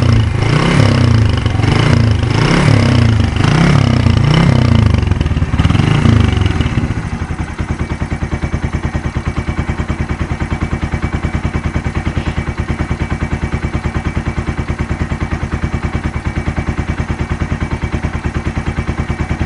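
Suzuki Intruder 125's single-cylinder engine through a bevel-cut open exhaust, blipped in quick revs a little under one a second for about the first seven seconds. It then drops to a steady idle with an even, clearly pulsing exhaust beat.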